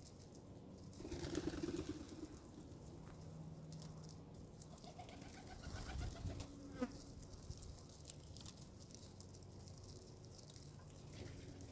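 A bird's low calls, about a second in and again around five to seven seconds, one of them sliding downward, over faint scattered clicks.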